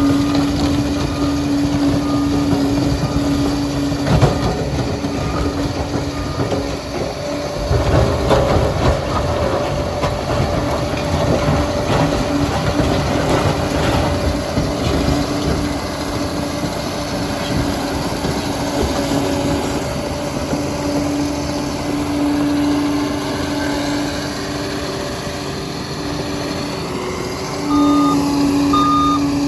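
Liebherr PR 746 crawler dozer working: engine running under load with tracks and blade clanking and knocking, strongest a few seconds in. Its reversing alarm beeps at the start and again near the end.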